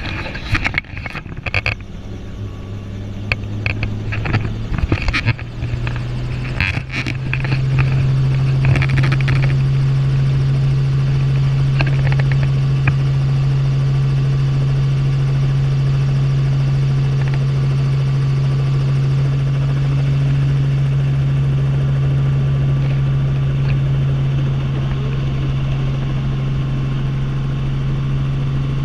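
Helicopter running, a strong low drone that climbs in pitch and loudness over the first eight seconds or so and then holds steady, as the rotor comes up to speed. A few clicks and knocks sound in the first several seconds.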